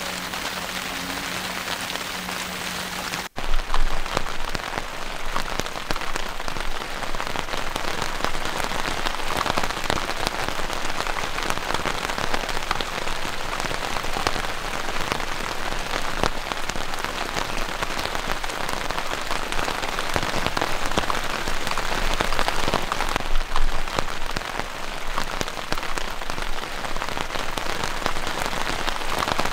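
Heavy rain falling steadily, a dense wash of many separate drops striking close by. About three seconds in, the sound cuts out for a moment and comes back slightly louder, and a faint low hum heard before that point is gone.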